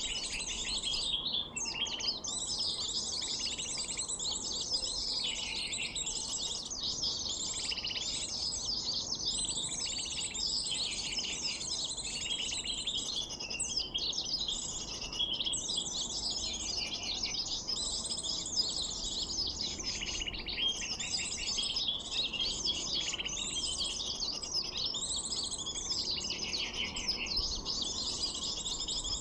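Dense, rapid, high-pitched twittering and chirping of small birds, going on without a break. It is a recorded sunbird call played back as a lure to draw the birds in.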